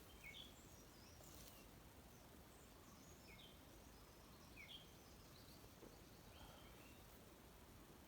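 Faint bird chirps in a quiet forest: short high calls scattered a second or more apart, with a brief rustle about a second in.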